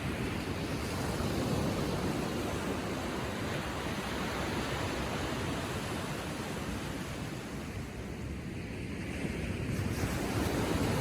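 Small Atlantic waves lapping and washing onto the shore in a continuous rush of surf, easing off about eight seconds in and building again near the end.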